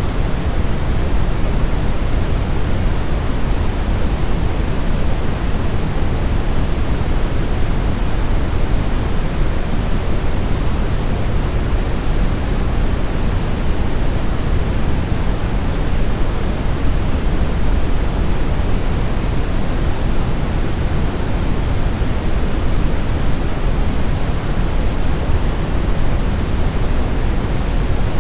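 Brown noise: a steady, deep hiss, strongest in the low end and falling off toward the highs, with no changes.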